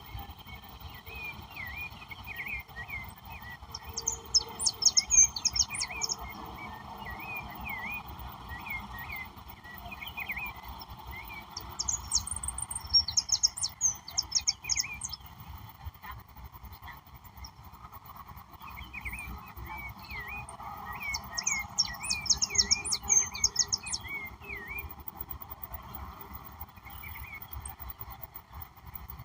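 Wild songbirds singing: a fast, high-pitched song phrase comes three times, several seconds apart, while other birds chirp repeatedly throughout over a steady background hum.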